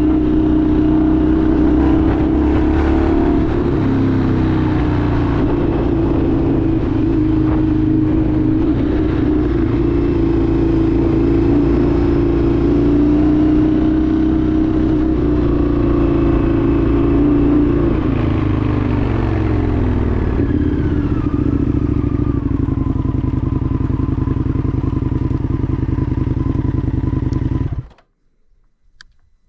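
Indian FTR 1200's V-twin engine running under way, then slowing with a falling pitch about two-thirds of the way through. It runs steady at lower revs before cutting off suddenly near the end.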